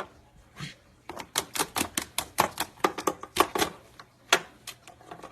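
A parrot biting and chewing at a cord with its beak: a rapid, irregular run of sharp clicks and crunches, starting about a second in.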